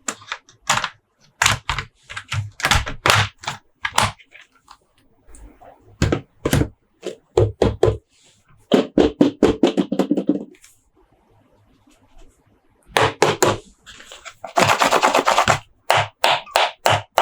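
Hard plastic toy packaging handled and opened: a quick run of sharp clicks and knocks, a rapid rattling stretch about nine seconds in, and a short burst of crinkling near the end.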